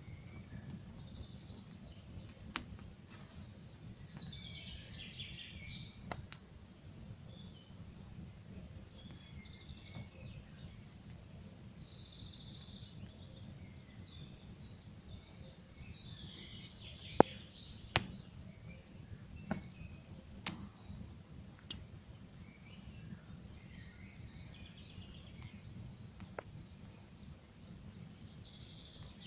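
Campfire burning with a low steady rumble and scattered sharp crackling pops, the loudest about two thirds of the way through. Songbirds sing over it in repeated trills and chirps.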